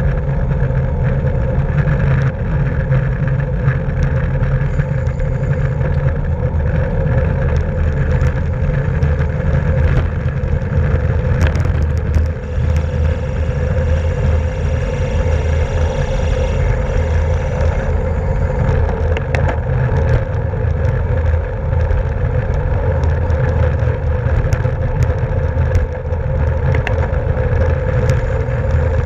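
Steady wind and road noise from a racing bicycle ridden at speed: rumbling wind buffeting on the mic, with tyre and drivetrain hum and scattered faint ticks.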